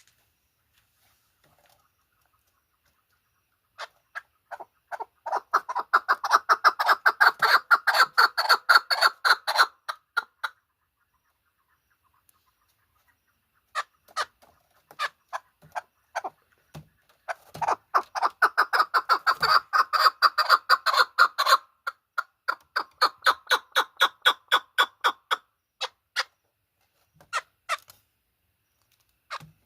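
Chukar partridge calling: two long runs of rapid, repeated chuck notes, with scattered single notes between them.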